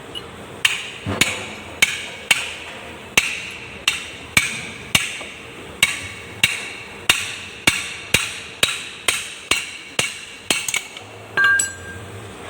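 Hammer striking metal about nineteen times, roughly two ringing blows a second, quickening toward the end. A louder, longer clank follows near the end.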